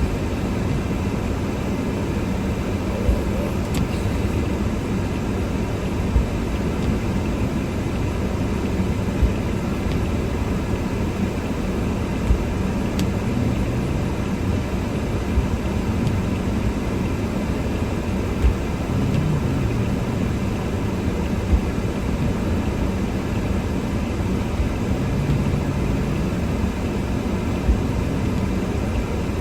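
Car driving through snow, heard from inside the cabin: a steady rumble of engine and tyres, with a short low knock about every three seconds.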